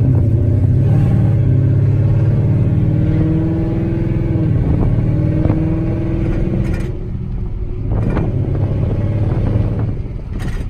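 Mustang GT's 5.0 V8 engine and exhaust heard loudly from inside the cabin while driving, the engine note rising and falling a few times.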